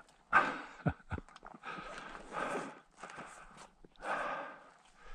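A person breathing hard, slow heavy breaths about one to two seconds apart, with two short low knocks about a second in.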